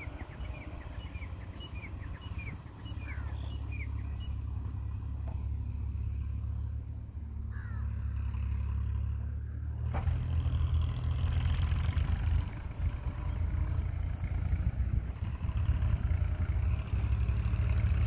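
New Holland 3630 tractor's diesel engine working hard under load, hauling a heavily loaded trolley: a steady low throb that gets louder about ten seconds in. Short repeated bird chirps in the first few seconds.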